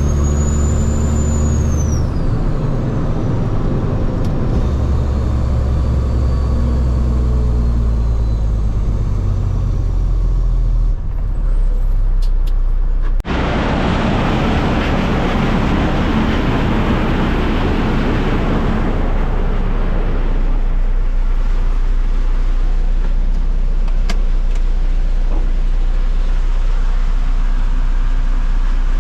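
Heavy diesel truck running on the road, the engine's pitch shifting as it goes, with a brief high whistle near the start. About 13 seconds in the sound changes abruptly to a broader, steadier noise.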